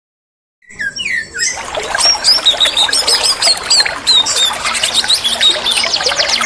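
White-rumped shama (murai batu) song, used as a lure recording to set other shamas singing: a fast, varied run of whistles and chattering notes that starts abruptly after nearly a second of silence, ending in a quick series of repeated down-slurred notes.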